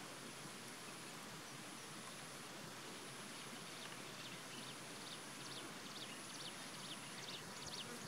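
Faint outdoor background hiss with a thin steady high tone, and from about halfway in a series of short high chirps from small birds, coming more often toward the end.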